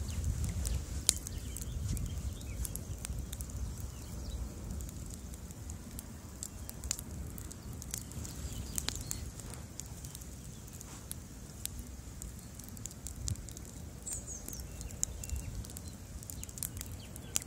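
Bonfire burning: irregular sharp crackles and pops of burning wood over a steady low rumble.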